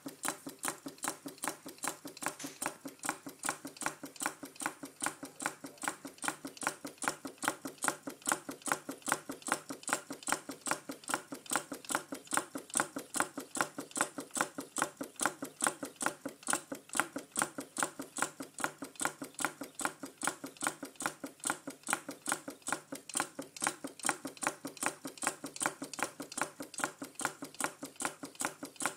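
Small Stirling engine running steadily, its moving parts ticking in an even rhythm of about three to four strokes a second.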